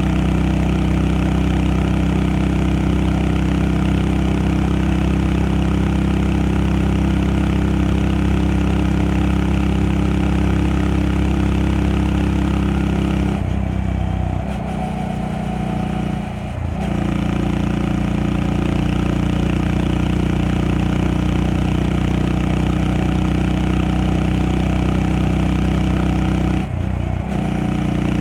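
Honda Monkey 125's single-cylinder four-stroke engine running steadily under way. The engine note drops away for a few seconds about halfway through, its pitch falling, then picks back up, with another brief dip near the end.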